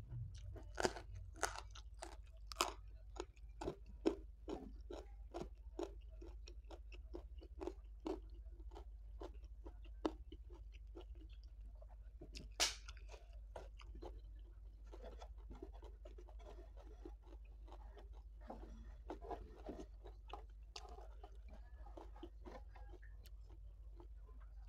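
Close-miked chewing of crunchy raw vegetables with rice and sambal. A quick run of crisp crunches in the first several seconds, one louder crunch about halfway, then softer, wetter chewing.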